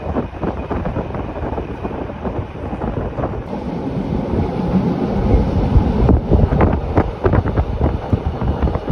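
Rhaetian Railway regional train running, with wind buffeting the microphone. The rumble and wind grow louder from about five seconds in.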